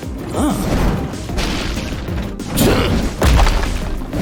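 Cartoon sound effects of several heavy thuds and crashes over background music.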